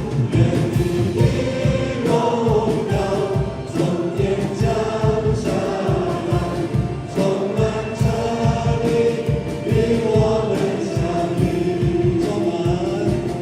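Worship song sung by a group of voices in harmony over band accompaniment with a steady beat.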